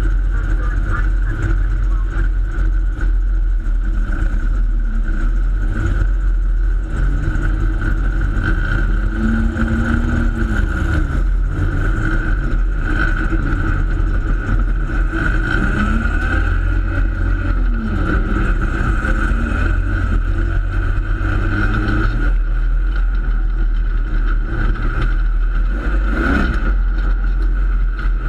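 Speedway Torana sedan's race engine heard from inside the cockpit, running loudly at low revs, with the revs rising and falling several times in the middle as the throttle is worked.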